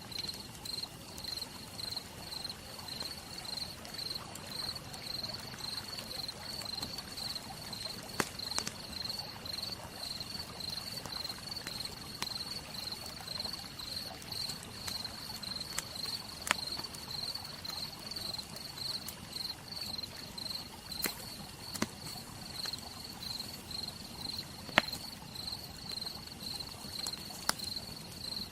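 Campfire crackling, with a few sharp pops from the burning wood, under a cricket chirping steadily in a fast, even pulse.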